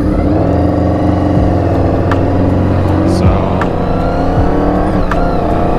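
Motorcycle engine running steadily while riding, its pitch shifting slightly up and down.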